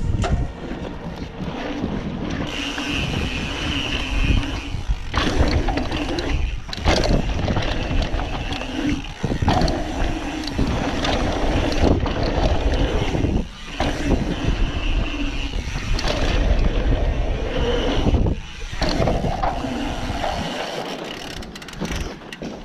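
Wind rushing over the microphone of a moving mountain bike, with the tyres rolling over a dirt trail, in long stretches broken by several short dips.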